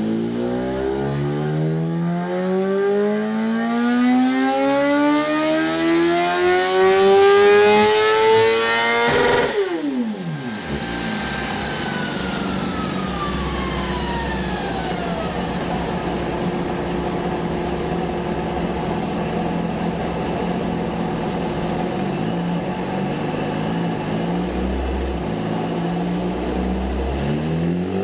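BMW motorcycle engine revving in one long, steady rise in pitch for about nine seconds, then the revs fall away quickly. It then runs at a steadier, lower pitch, and starts to rise again near the end.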